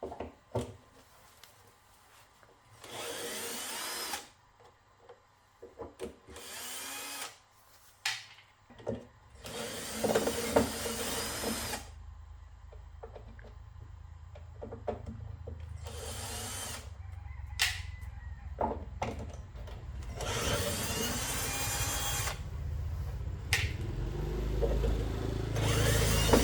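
Small power drill running in short bursts of a second or two, about six times, its pitch sweeping as the speed changes, with handling clicks and knocks between bursts.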